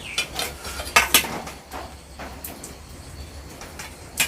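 Metal utensils knocking and scraping against a cooking pot: a string of sharp clinks, loudest about a second in and again near the end.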